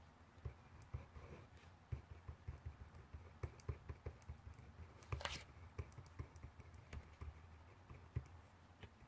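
Pencil writing on paper: a faint, irregular run of light taps and scratches of the lead, with one brief louder rustle a little past halfway.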